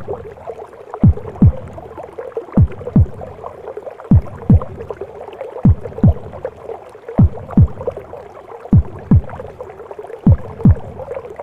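A mother's heartbeat as heard from inside the womb: low double thumps (lub-dub), each falling in pitch, coming about once every one and a half seconds. Under them runs a steady, muffled whooshing womb sound.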